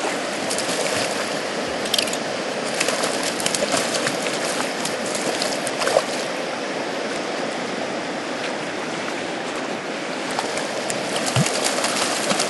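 Steady rush of a flowing river, with scattered sharp splashes, a few of them louder.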